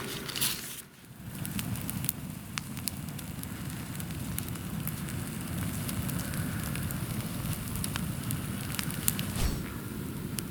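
Wood campfire burning, with a steady low rush and frequent sharp crackles and pops.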